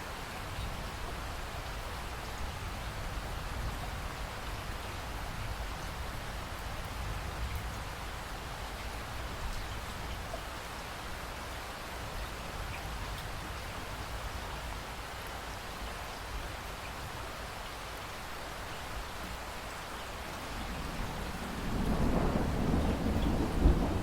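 Heavy rain falling steadily, with low thunder rumbling underneath. Near the end a louder thunder rumble rolls in and builds to a peak.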